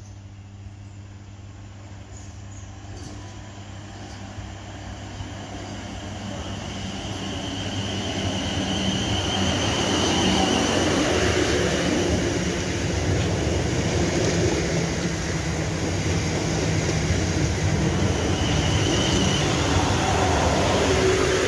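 A train approaching and running through the station, growing steadily louder for about ten seconds and then staying loud as it rumbles past, with a high squeal from the wheels twice.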